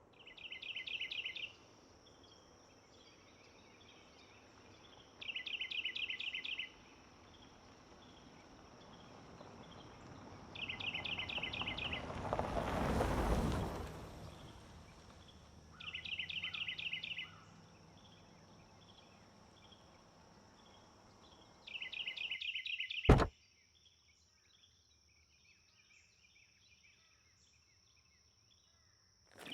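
A constructed outdoor soundscape. A high, rapidly pulsing trill repeats about every five seconds over a steady high-pitched whine. A whoosh swells and fades around the middle, and a single sharp knock comes just after twenty seconds, after which the background hush drops away.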